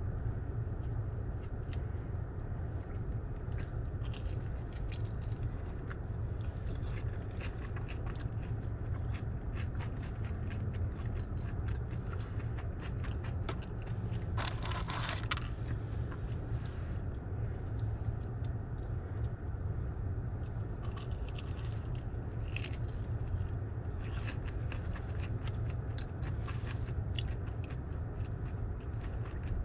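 Close-up chewing and crunching of battered fried seafood, with small clicks and scrapes of a plastic sauce cup, over a steady low rumble. A louder rustle comes about halfway through.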